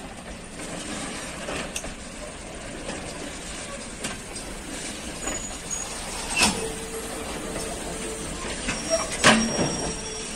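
Train of open freight wagons rolling slowly during shunting: a steady rumble of wheels on rail, with a few clanks from couplers and wheels, the loudest about six and a half and about nine seconds in. A thin squeal follows the first loud clank for about two seconds.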